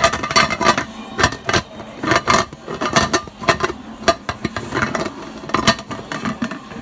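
Dishes and utensils clattering and clinking in a series of irregular sharp knocks, a few each second.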